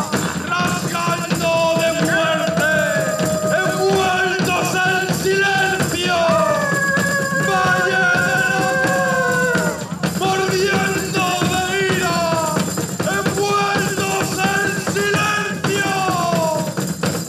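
Live band music: a melody line with sliding notes over a steady accompaniment, with a short break about ten seconds in.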